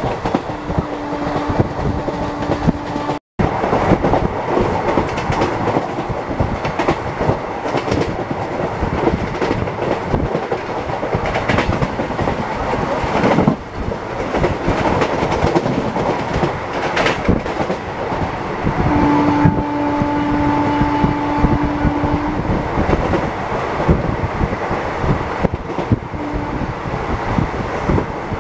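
Passenger train's wheels running on the rails, heard from aboard the moving train: a continuous rumble with a dense clickety-clack over rail joints. A steady humming tone comes in twice, briefly near the start and for about three seconds past the middle. The sound cuts out for a moment about three seconds in.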